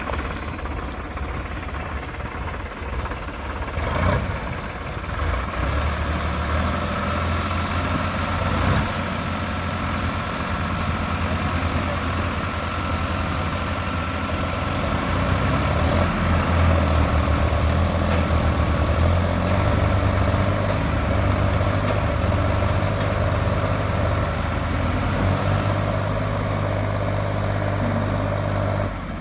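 Tractor diesel engine running, the engine note building up about six seconds in and running hardest in the second half, as a tractor strains to pull another out of deep mud. A couple of brief knocks.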